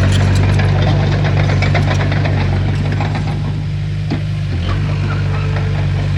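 Heavy diesel engine of a Komatsu bulldozer running steadily, with metallic clanking and rattling over it, thickest in the first couple of seconds.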